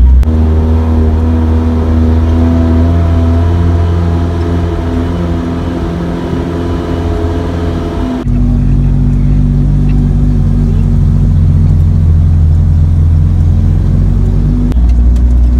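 Jeep engine running as the vehicle drives, heard from inside the vehicle as a steady low rumble with a held engine note. The note changes abruptly about eight seconds in and again near the end.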